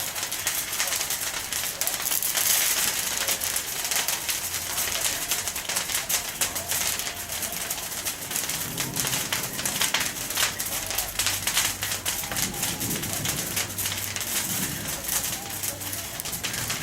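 Bonfire of dry pine branchlets and needles crackling, with a constant, irregular stream of sharp pops and snaps.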